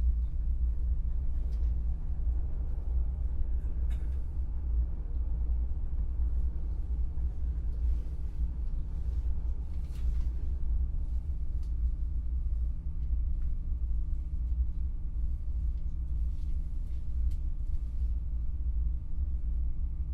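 Steady low rumble of a passenger train running, heard from inside the carriage, with a few faint clicks and creaks.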